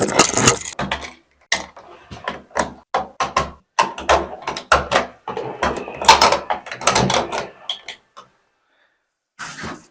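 Hand tools and metal parts clicking and clacking in quick, irregular succession during electrical wiring work. The clatter stops about eight seconds in, with one short burst of handling noise near the end.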